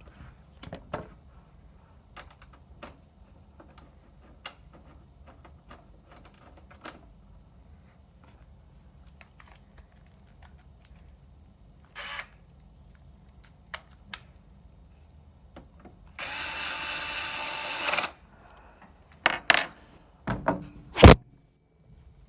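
Scattered light clicks and taps of parts being handled, then a small power tool motor runs steadily for about two seconds, followed by a few louder knocks.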